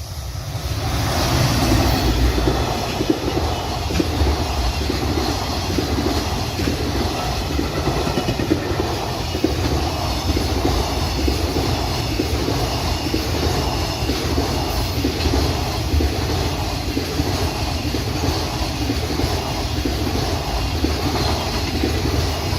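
Freight train passing at close range, its wheels clattering over the rail joints in a steady repeating rhythm. The sound swells up within the first two seconds, then holds.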